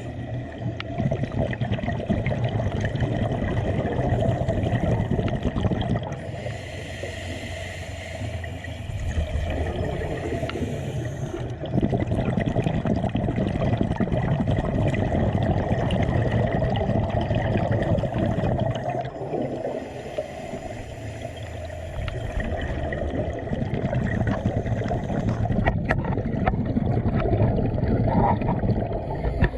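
Water gurgling and churning over a steady low rumble, rising and easing in waves.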